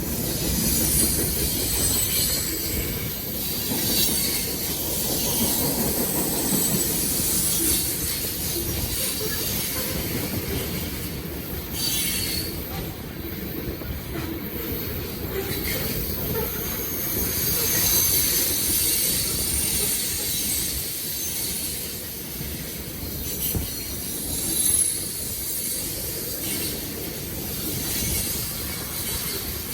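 Long freight train rolling past: a steady rumble of wheels on rail, with thin high-pitched wheel squeals coming and going.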